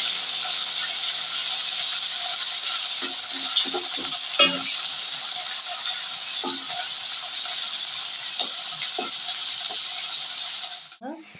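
Onions, crushed garlic, ginger and green chillies sizzling in hot mustard oil in a metal kadhai, with a spatula scraping and knocking against the pan now and then as they are stirred. The sizzle cuts off suddenly near the end.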